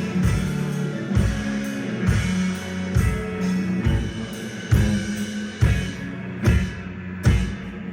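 Rock band playing live: a drum kit pounding a steady beat, about one heavy hit every 0.8 seconds, over held low notes.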